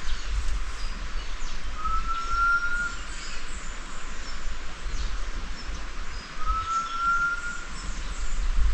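A bird whistling a single, slightly rising note about a second long, twice, some four and a half seconds apart. Faint higher chirps and a steady low rumble sit underneath.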